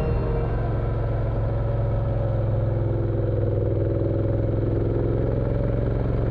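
Motorcycle engine running at a steady speed, a low even hum with fast regular firing pulses and no marked revving.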